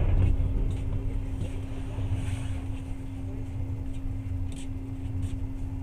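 Passenger train running, heard from inside the carriage: a steady low rumble with a constant hum and a few faint high ticks. The rumble eases slightly about a second in.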